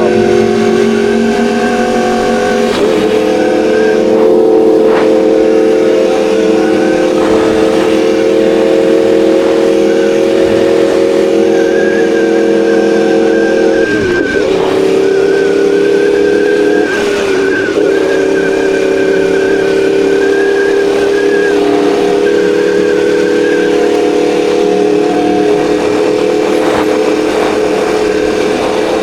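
Sport motorcycle engine running at a steady cruise, a loud held drone with brief dips in pitch a few seconds in and twice around the middle.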